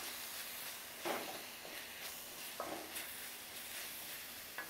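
Onion-tomato masala with spice powders sizzling faintly in a pan while being stirred with a spatula, with a few soft scraping strokes against the pan.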